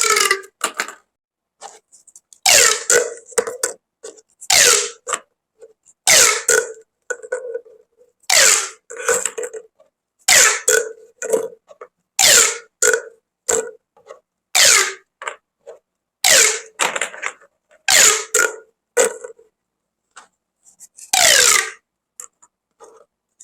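Corrugated plastic pop tubes being stretched and squeezed over and over, about one short burst every two seconds, each with a steady buzzing tone under pitches that glide downward.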